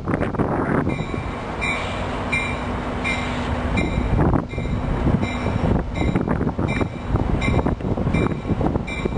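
Amtrak passenger train running in toward the platform, a steady rumble of the train on the rails, with a high ringing tone that repeats somewhat faster than once a second.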